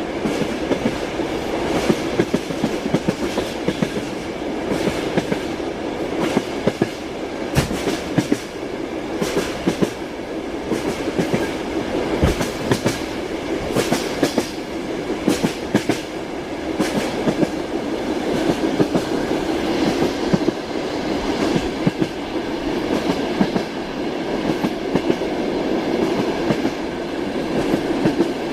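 Train wheels clicking over rail joints: a steady rumbling run with repeated clickety-clack knocks that come in loose groups.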